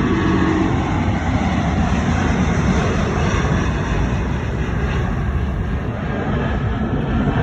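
Jet airliner engine noise, loud and steady, with most of its weight in a low rumble.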